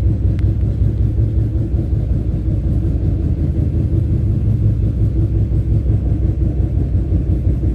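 Passenger train running at steady speed: a continuous low rumble of the coach and wheels on the track.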